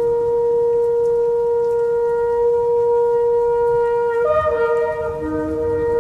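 Shofar (ram's-horn trumpet) blowing one long, steady blast. About four seconds in the tone shifts and more notes overlap it, with a lower note joining near the end.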